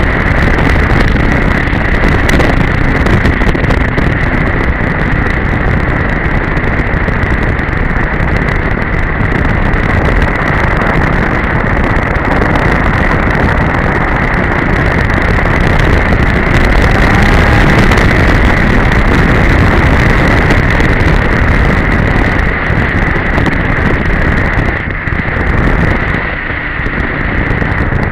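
2002 Polaris Edge snowmobile's two-stroke twin running under way on the trail, with a steady high whine over heavy wind rush on the microphone. The sound eases off briefly near the end.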